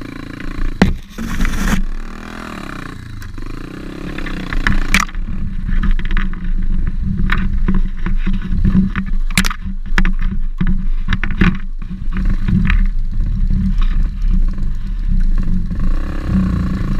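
Pit bike's single-cylinder engine running while being ridden, its revs rising and falling in the first few seconds, with a string of sharp knocks and rattles through the middle.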